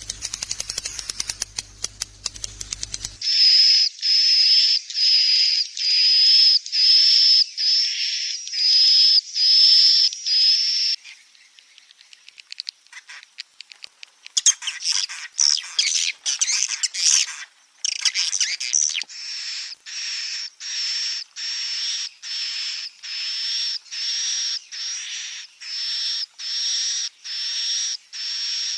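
Recorded white-nest swiftlet calls played as a roosting lure. It opens with rapid clicking, then comes a long run of high, buzzy chirps about one a second. Denser chattering follows about halfway through, then the steady repeated chirps return.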